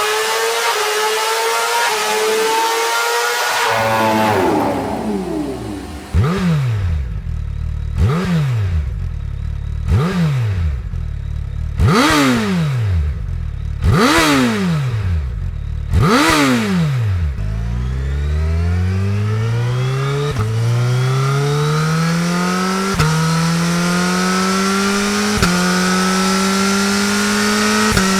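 High-performance sport motorcycle engine: a rising rev, then about six sharp throttle blips two seconds apart, each climbing and falling back. Then it accelerates hard through the gears, the pitch climbing and dropping at each of three upshifts.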